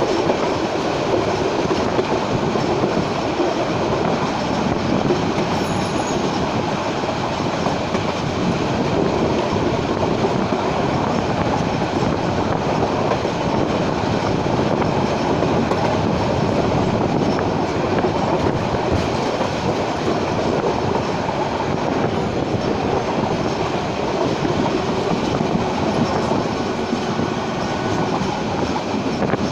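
Passenger train running along the track: a steady rumble of wheels on the rails.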